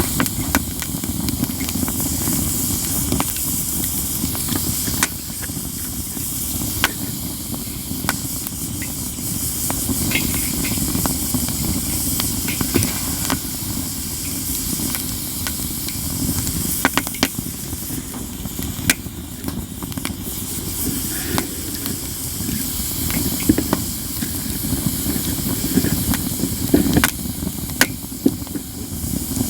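Katsura-wood campfire crackling steadily, with sharp snapping pops at irregular moments over a constant low rush and hiss of the burning fire.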